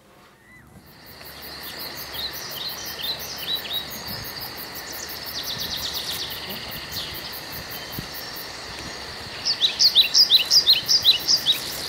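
Outdoor ambience of small songbirds singing: repeated short falling chirps, with a steady faint high hum beneath. A quick run of loud chirps comes near the end.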